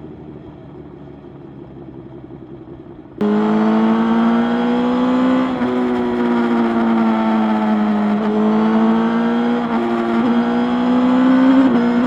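Motorcycle engine heard while riding, at first fairly quiet. About three seconds in it cuts suddenly to a much louder, steady engine note that rises and falls slowly in pitch with the throttle.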